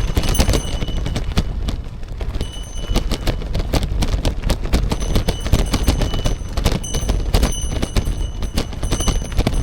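Riding a bicycle on a road: wind rumbling on the microphone, with a dense run of sharp clicks and knocks from the bike and its mount. A thin high tone comes and goes several times.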